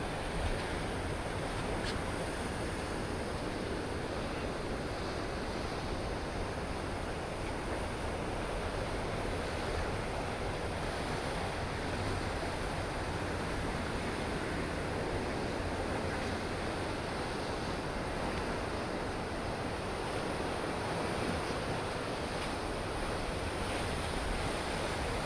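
Rough, stormy sea surging steadily against the shore, with wind blowing across the microphone.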